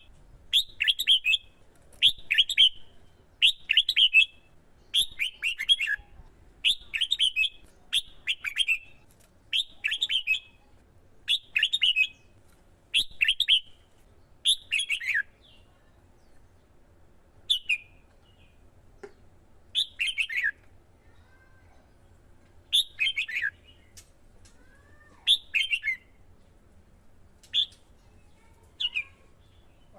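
Red-whiskered bulbul singing short, repeated chirping song phrases, about one a second at first and more spaced out from about halfway.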